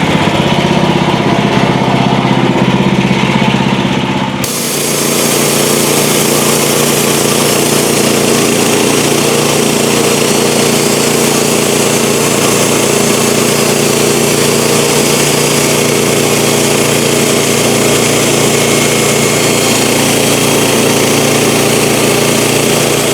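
Sawmill running while milling a cant into boards: a steady engine note, and about four seconds in the sound changes as a loud, even sawing hiss sets in and holds.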